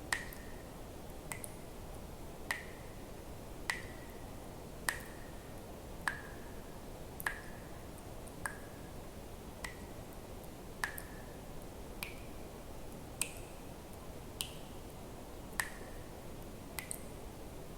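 Water drops falling one at a time into water, about one every 1.2 seconds. Each lands with a sharp plink and a short ringing tone whose pitch shifts a little from drop to drop.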